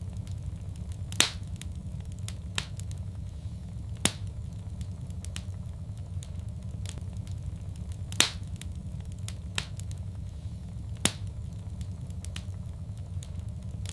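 Fireplace fire crackling: about six sharp pops a second or more apart, the loudest about a second in and about eight seconds in, over a steady low sound of the flames.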